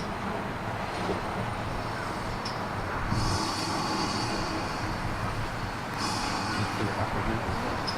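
GWR 4575 Class Small Prairie 2-6-2T steam locomotive and its train running with a steady rumble, with two spells of hissing: one about three seconds in, and one shorter spell about six seconds in.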